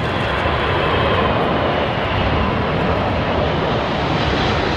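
Jet airliner on final approach passing low overhead, its engines a loud steady rush that builds just before and holds through.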